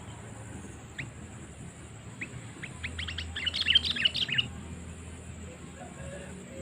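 Sooty-headed bulbul (kutilang) lure calls. A single sharp chirp comes about a second in and another near two seconds, then a fast jumble of chirps lasts about two seconds.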